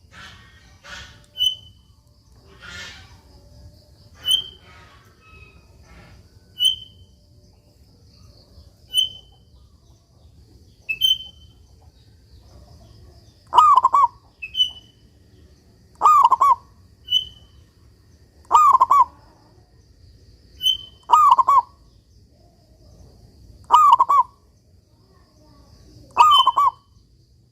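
Zebra dove (perkutut) cooing: from about halfway in, a run of about six coos, each a quick falling phrase, roughly two and a half seconds apart. Short high chirps repeat about every two seconds throughout.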